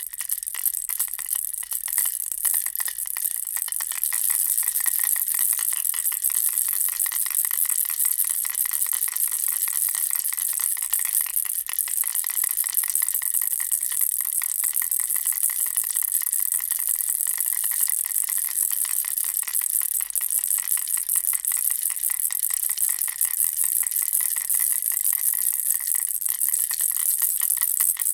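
Bear-ball baby rattle shaken without a break, giving a fast, dense rattling.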